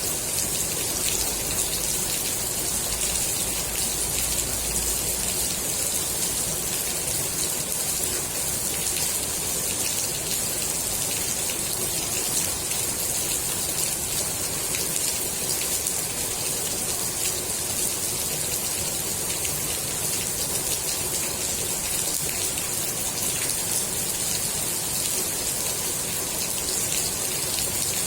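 Steady rain falling on the water of a swimming pool: an even hiss of countless small drops, with fine patter throughout.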